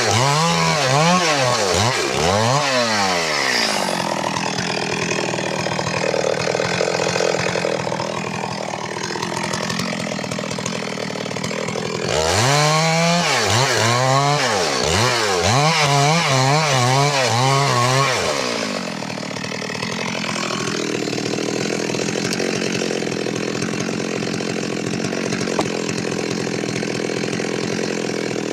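Stihl MS 382 two-stroke chainsaw revved in a series of quick rises and falls, then running steadily at a lower pitch while cutting wood; the revving and the steady cutting come round twice.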